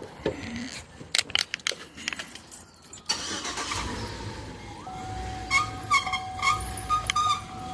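Chevy 5.3 V8 in a 2007 Tahoe running, with its dry serpentine belt squealing in a steady tone and chirping repeatedly; the squeak comes from the dry belt and is harmless. Sharp clicks come first, and the engine sound rises about three seconds in.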